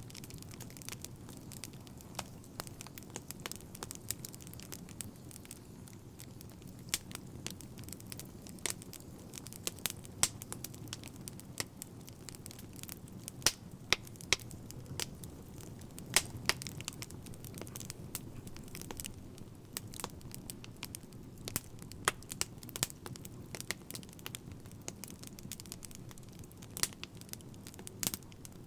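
Fire crackling: irregular sharp pops and snaps, a few much louder than the rest, over a steady low rumble.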